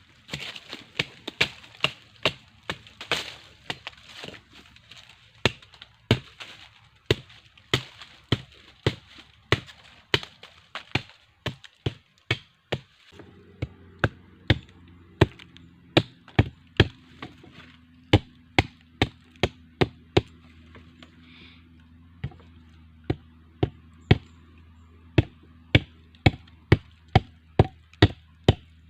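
Blade chopping wood, a long run of sharp strikes about two a second. A low steady hum comes in about halfway.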